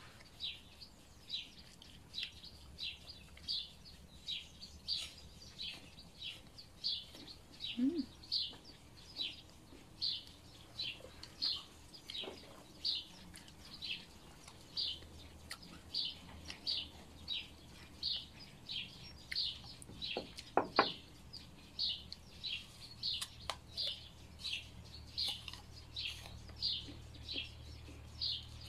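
A small songbird calling over and over, a steady run of short high notes that slide down in pitch, about two a second, with one louder short sound about twenty seconds in.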